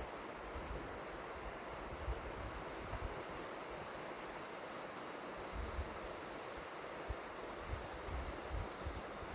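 River water flowing, a steady even rush, with some low wind buffeting on the microphone around the middle.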